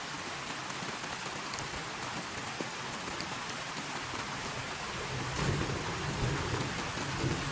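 Heavy rain falling in a steady hiss, with a low roll of thunder rumbling in a little past five seconds in.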